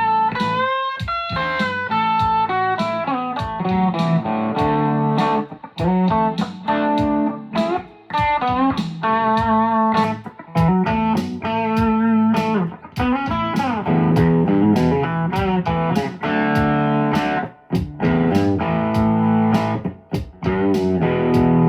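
Electric guitar played through a Fender amp: bluesy picked single-note lines and chords, with string bends and a few short pauses between phrases.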